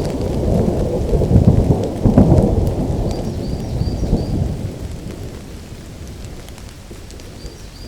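Thunder rolling over steady rain: a deep rumble swells to its loudest about two seconds in, then dies away over the next few seconds, leaving the rain pattering.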